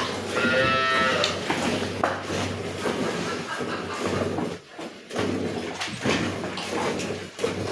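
Cattle mooing: one short call of about a second near the start.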